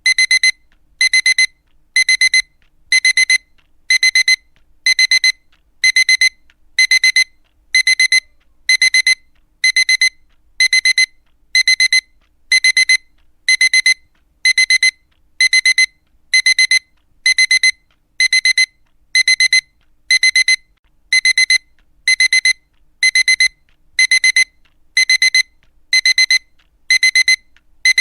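Digital alarm clock going off: a short cluster of rapid high-pitched beeps repeating steadily about once a second.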